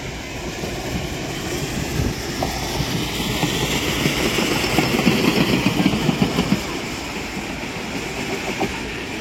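Train running on rails: a steady rumble with dense wheel clatter that swells to its loudest about five seconds in, then eases.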